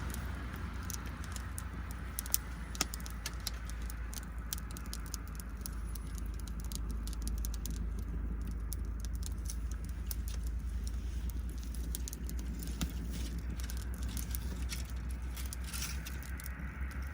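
Wood fire crackling, with many small, sharp pops at irregular moments over a steady low rumble.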